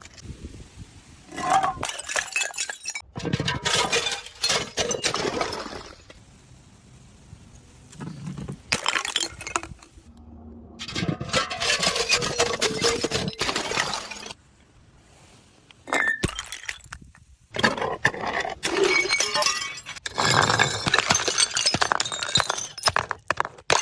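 Glass bottles smashing and shattering, with clinking shards, in several bursts of rapid sharp impacts separated by short quieter gaps.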